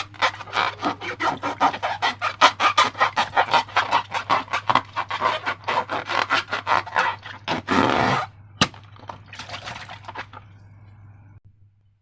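Slime being worked and squished, making quick repeated wet strokes at about four or five a second. Near eight seconds comes a longer continuous squelch and a single click, then softer handling that fades out.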